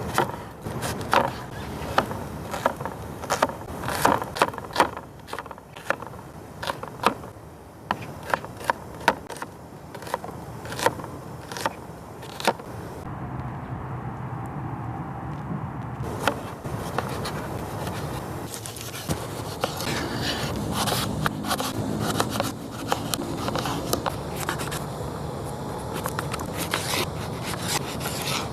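Firewood snapping and crackling: many irregular sharp cracks, thickest in the first half.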